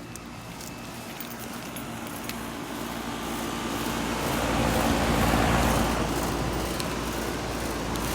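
Goodman GSX13 three-ton air conditioner condenser starting up: a low compressor hum and the outdoor fan coming up to speed, the rush of air growing louder over about five seconds, then running steadily.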